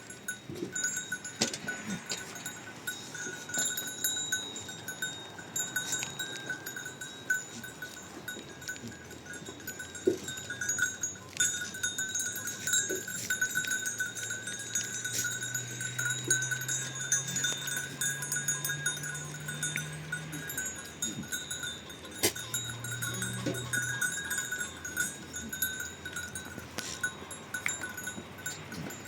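Bells on a grazing flock of sheep and goats, ringing steadily with scattered clicks. A low steady drone comes in twice in the second half, once for several seconds and once briefly.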